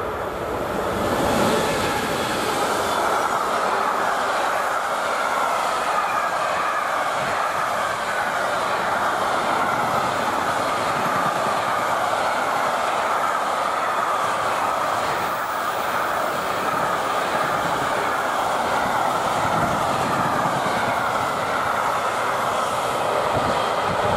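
A train running past on the rails: a loud, steady rush of wheel and rail noise that swells about a second in and holds.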